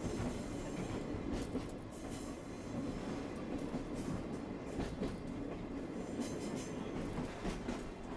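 Arashiyama trolley train (Sagano Romantic Train) running along the track: a steady low running noise from the wheels and cars, with scattered short, sharp clicks and squeals from the wheels on the rails.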